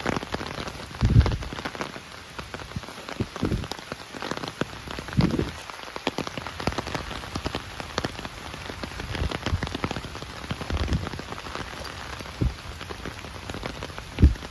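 Steady rain falling, with many sharp raindrop ticks close by and a handful of short low thumps scattered through it.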